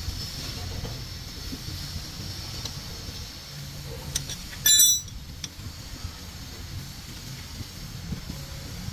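A low steady rumble with a few light clicks, and one loud, short ringing clink of metal about halfway through.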